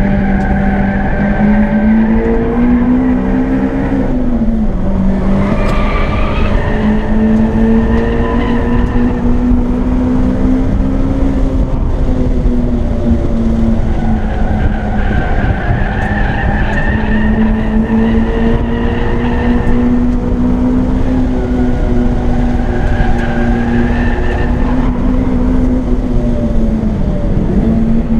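Acura RSX's K-series four-cylinder engine heard from inside the cabin, held at high revs at a near-steady pitch while lapping a track. The pitch dips briefly about four seconds in and again near the end, as the driver lifts or shifts.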